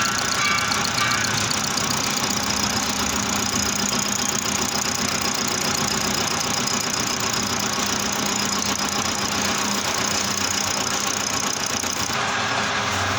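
Manual metal lathe running steadily while turning a stainless steel plate, a continuous machine drone with a faint high whine; its sound shifts near the end.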